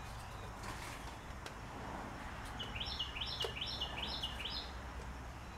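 A songbird sings a quick phrase of stepped high notes repeated about five times in two seconds, over a steady low hum, with a few light clicks.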